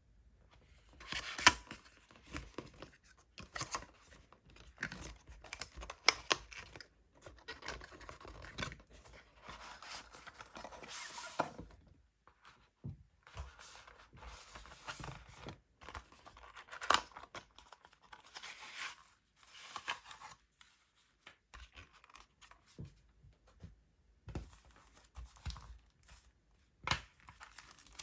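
Packaging being handled and torn open: crinkling and tearing with irregular sharp clicks and taps, pausing briefly twice.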